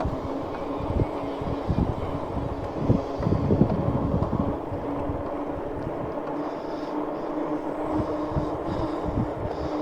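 Wind buffeting the microphone in irregular gusts while riding a Lectric XPeak electric bike, over a steady hum from the bike's motor and tyres.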